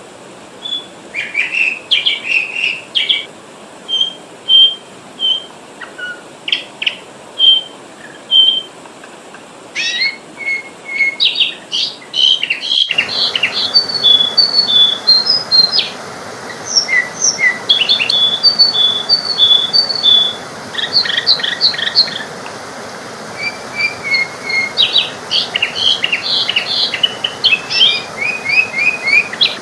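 Sooty-headed bulbul (kutilang) calling: a busy run of short chirps and clear whistled notes, the lure call used to draw in wild bulbuls. The background hiss jumps up suddenly about thirteen seconds in, where one recording gives way to another.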